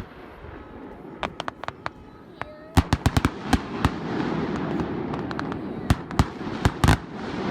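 Fireworks going off: scattered sharp bangs and cracks at first, growing thick about three seconds in, over a steady background rumble.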